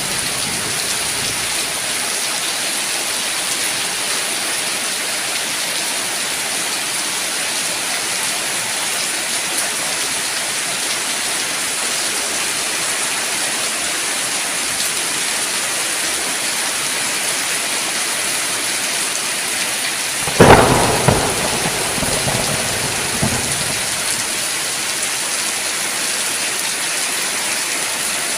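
Steady rain falling. About two-thirds of the way through, a sudden loud thunderclap cracks and rumbles away over a few seconds.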